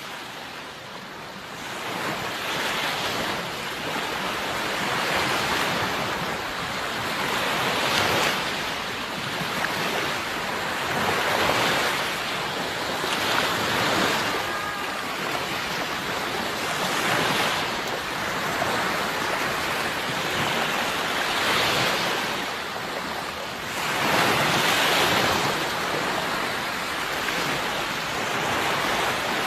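Sea waves breaking and washing on the shore, each surge swelling and fading every few seconds.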